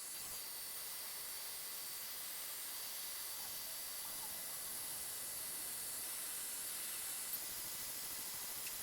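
xTool D1 Pro 20 W diode laser engraver running an engraving test on birch plywood: a steady, fairly quiet hiss with faint high whining tones, typical of the laser module's cooling fan.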